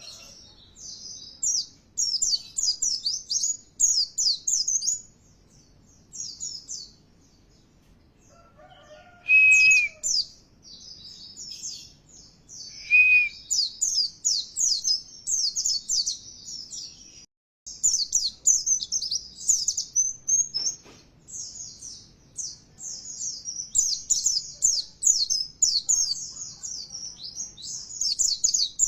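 White-eye (pleci) song: rapid, high twittering phrases in bursts with short pauses between them, and a few short lower whistled notes. The sound cuts out for a moment about halfway through.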